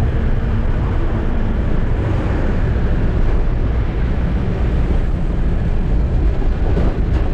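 Eicher truck's diesel engine running steadily while driving, with road and tyre noise, a dense low drone that stays constant.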